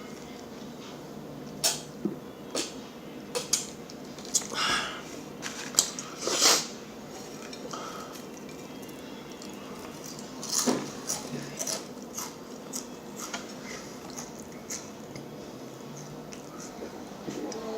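Close-miked eating sounds: irregular wet mouth clicks and smacks with short crunchy chewing bursts, busiest in the first half and again around the middle, over a low steady room hum.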